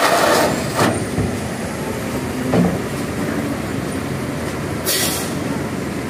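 Heavy truck running with a low engine rumble, with a hiss of released brake air ending about half a second in and another short hiss about five seconds in.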